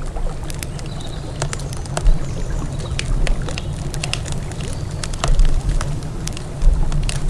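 Campfire crackling, with irregular sharp pops and snaps of burning wood over a steady low rumble.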